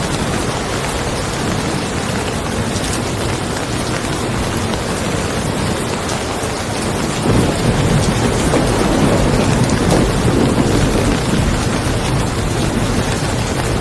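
Steady rain, with a roll of thunder rumbling in about halfway through and fading again a few seconds later.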